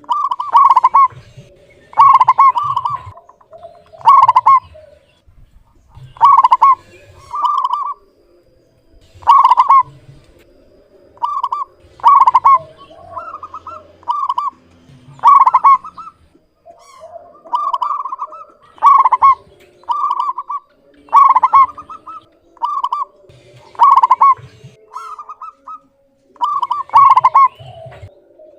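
Zebra dove (perkutut) cooing in its clear, ringing song: short phrases repeated about every one to two seconds, without a break.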